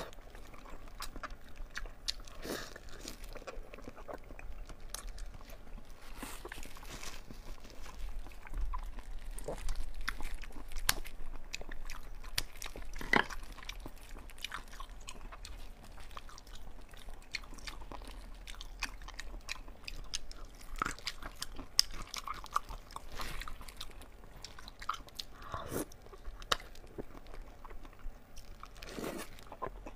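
Close-up eating sounds: a person biting and chewing chunks of glazed braised pork belly. There are many small sharp mouth clicks throughout, and a few louder bites about 13 and 22 seconds in.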